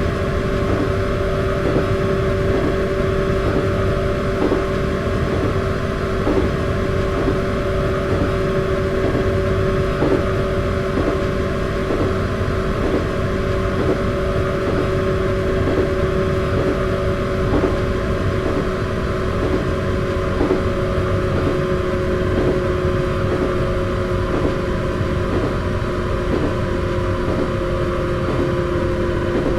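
Running sound of a resistance-controlled (rheostatic) electric train: a steady motor and gear hum with a regular clatter of wheels over rail joints about once a second, the hum easing slightly in pitch near the end.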